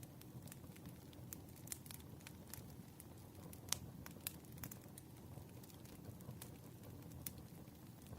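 Wood fire crackling and popping faintly over a low steady rumble, with irregular snaps, one sharper pop a little before the middle.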